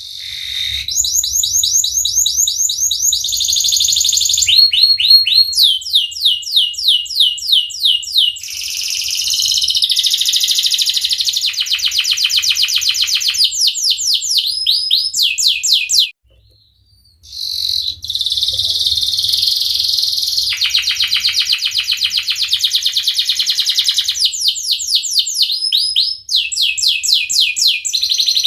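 Domestic canary singing a long, loud song of rapid trills and rolls, each phrase a fast run of repeated notes that changes to a new pattern every second or two, with one brief pause about sixteen seconds in.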